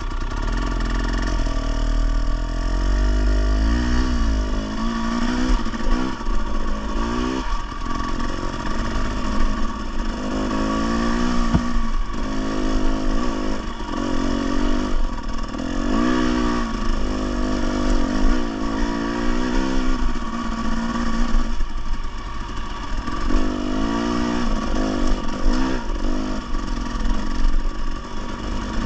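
Dirt bike engine revving up and down repeatedly as it is ridden along a trail, its pitch rising and falling every second or two.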